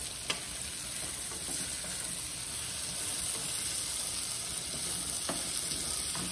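Beans frying in olive oil in a pan, sizzling steadily while a wooden spoon stirs them, with a sharp knock of the spoon against the pan just after the start and a fainter one near the end.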